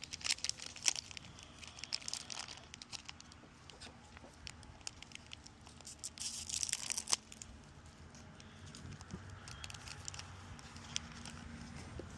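A foil trading-card booster pack being torn open and its wrapper crinkled, in scattered crackles, with a longer tearing stretch about six to seven seconds in.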